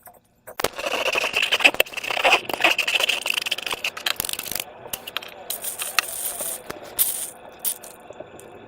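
Slime and rubber balloons handled and squeezed, giving a dense run of wet crackles, clicks and small pops that starts about half a second in and thins out after about four seconds.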